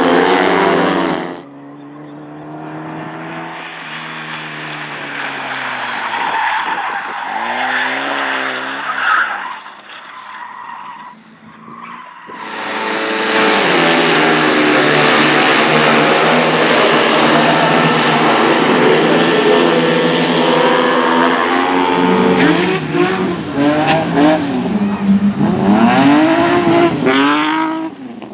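Race car engines revving hard, pitch climbing and dropping through gear changes and throttle lifts, with tyre squeal and skidding. The sound changes abruptly about a second in and again about twelve seconds in as one car gives way to another, and near the end the engine note swoops rapidly up and down.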